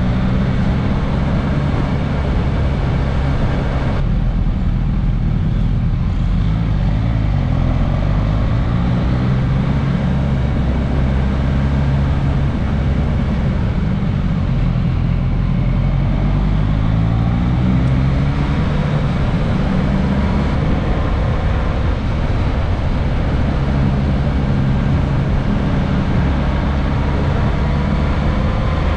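Suzuki GSX-S1000S Katana's inline-four engine running under way, its pitch rising and falling repeatedly as the bike accelerates and slows, over a steady rush of wind and road noise.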